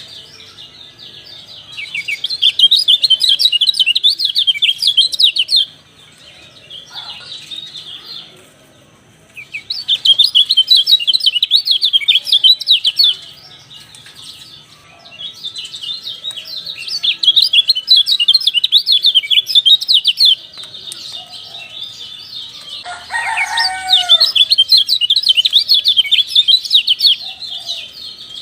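Kecial (white-eye) song: long phrases of rapid, high twittering chirps, four bouts of several seconds each with brief pauses between. A rooster crows once about two-thirds of the way through.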